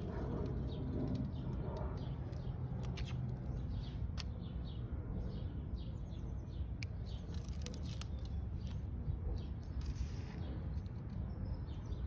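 Small birds chirping in many quick, short high notes, with a few sharp clicks, over a steady low rumble.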